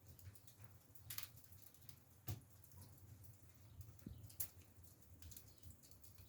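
Faint, irregular crackling and ticking of firewood burning in a freshly lit stove firebox, a few sharper cracks among them, over a low steady rumble.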